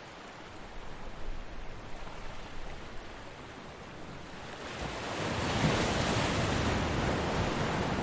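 Ocean waves breaking on a beach: a low wash of surf that swells into a louder crashing wave about five seconds in, then starts to fade near the end.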